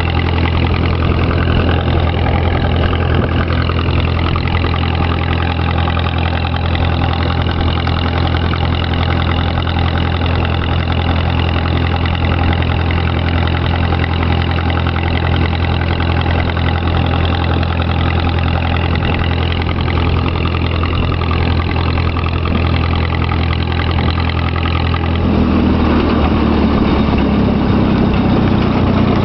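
Tractor engine running steadily as the tractor is driven. About 25 seconds in, the engine note changes and grows a little louder in its lower-middle range.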